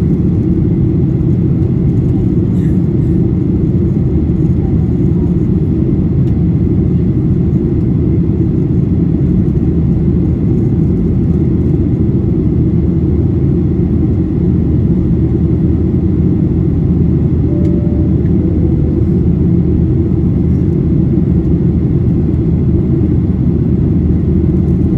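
Steady, low cabin noise of a Boeing 737-800 in flight: CFM56-7B jet engines and airflow over the fuselage, heard from inside the passenger cabin during the climb.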